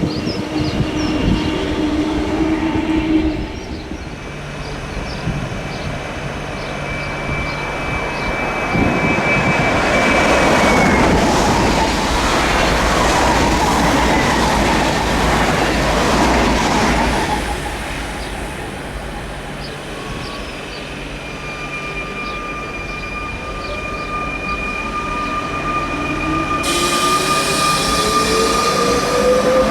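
Electric trains at a station platform: a train passes with a loud rush of wheels on rail, loudest about ten to seventeen seconds in, over steady electric whines. Near the end a train's motors whine and climb steadily in pitch as it accelerates.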